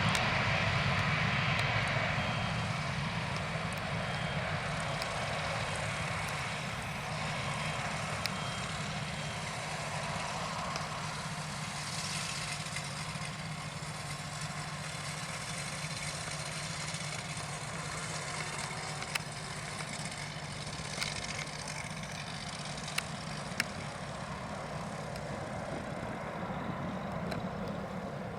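Airbus A320's CFM56 turbofan engines fading into the distance after takeoff, a steady jet rumble that drops away over the first several seconds and then lingers faintly. A few faint clicks come in the second half.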